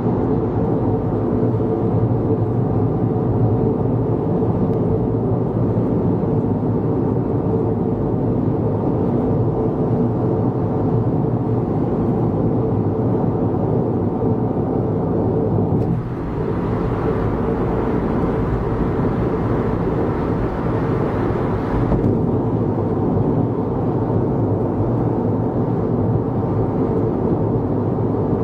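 Steady road and engine noise heard inside a car cruising on an expressway. Partway through, a brighter hiss rises for several seconds and then drops back.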